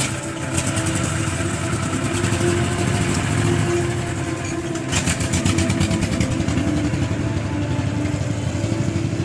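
Truck engine running steadily, a dense low rumble, with a brief clatter about five seconds in.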